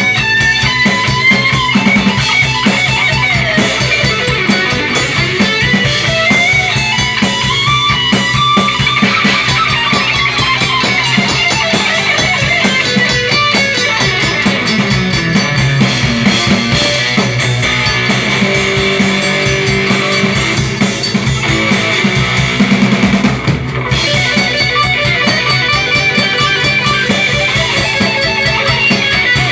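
Rock band playing: guitars over a drum kit, with a melodic lead line weaving above them.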